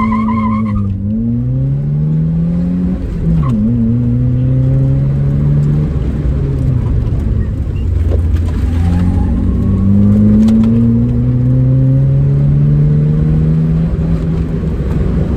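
Car engine accelerating hard through the gears. Its pitch climbs steadily, then drops back sharply at each change, several times over.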